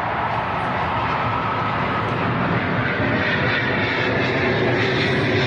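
Military jet flying by, its engines a continuous roar that grows gradually louder.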